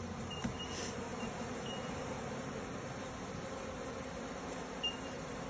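Steady hum of many honeybees buzzing around an opened hive.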